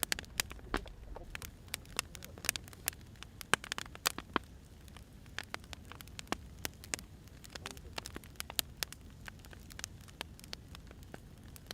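Burning firewood crackling: irregular sharp pops and snaps, several a second, over a soft low rumble.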